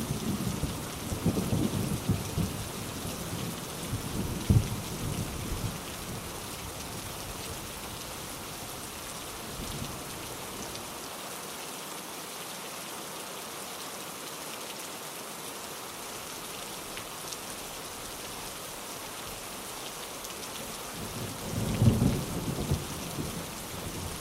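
Steady rain with rolling thunder in a thunderstorm. A rumble dies away over the first several seconds, then the rain hisses on its own before another rumble of thunder rises near the end.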